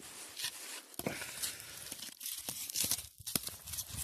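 Rustling and crunching of dry firewood and debris as someone rummages through the scattered campfire, with a few sharp clicks of wood knocking.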